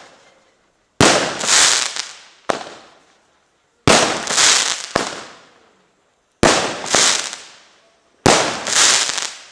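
Fireworks going off: about four loud bangs some two and a half seconds apart, each followed by a crackling, hissing swell that fades within a second or so, with a couple of smaller bangs in between.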